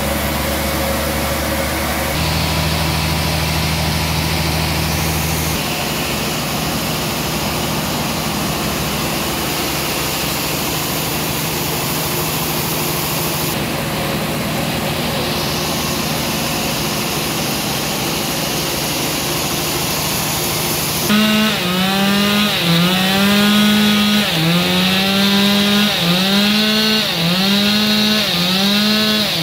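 Engine-driven band sawmill running and cutting a trembesi log, a steady mechanical hum with sawing noise. About two-thirds of the way in, a pitched whine starts dipping and recovering about once a second.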